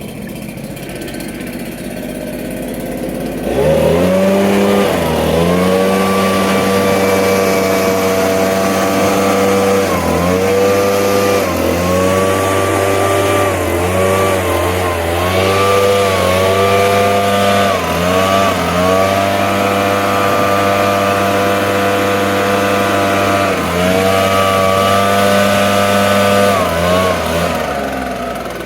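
A small gasoline engine running fast and steadily, coming up to speed about three and a half seconds in, with brief dips in pitch every couple of seconds as it takes and sheds load.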